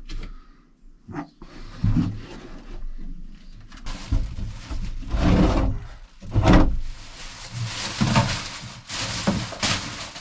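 Irregular rustling, scraping and knocking of objects being handled and moved about inside a small boat cabin, with louder bumps about five and six and a half seconds in.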